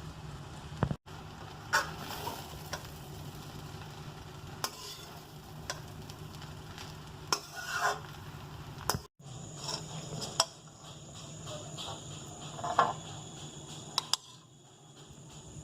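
Chow mein noodles being stirred and tossed in a hot pan: a spatula scrapes and clatters against the pan every second or two over a light frying sizzle and a steady low hum.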